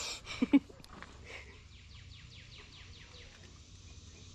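Two sharp knocks about half a second in, then a bird singing a run of about eight quick, evenly spaced notes, each sliding down in pitch, lasting about two seconds.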